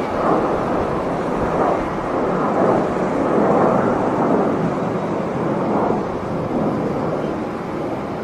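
Jet airliner engine noise, a loud rumble that swells and eases slowly.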